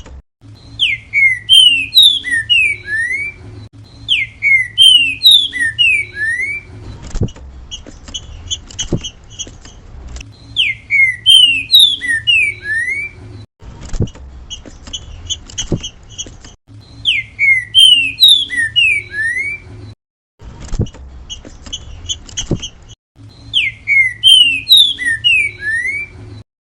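Green-winged saltator (trinca-ferro) singing its 'grego mole boi' song: five loud phrases of quick, falling whistled notes, several seconds apart, with fainter short high notes in between.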